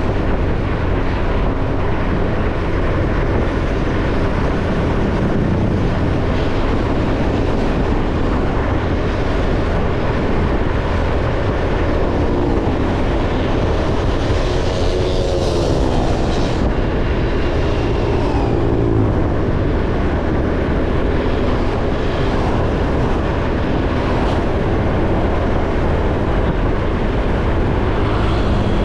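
Motorcycle on the move: steady road and wind rumble under the running engine. An engine note rises and falls around the middle.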